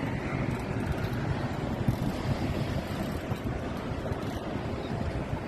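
Wind buffeting the microphone, a steady rushing with irregular low thumps, over water lapping around the boat.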